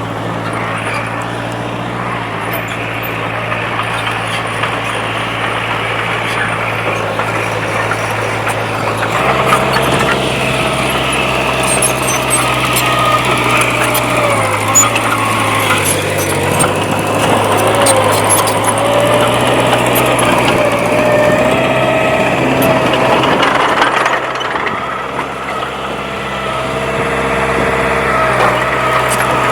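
Diesel engine of heavy earthmoving equipment running under load, its note stepping up and getting louder about nine seconds in and easing back near the end. A wavering whine and scattered light clicks and knocks come over it.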